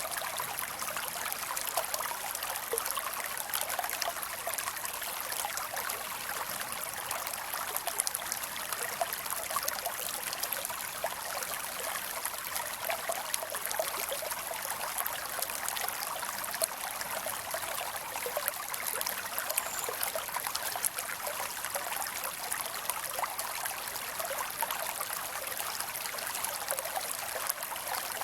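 Creek water running and trickling over rocks, a steady even rush.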